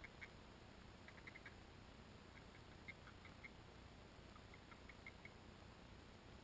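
Faint, distant small birds chirping: short high notes in little clusters of two to four, scattered through, over the steady low hiss of a microphone muffled inside a waterproof case.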